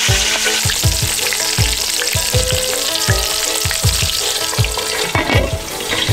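Battered crappie fillets sizzling steadily in hot oil in a skillet, over background music with a steady beat.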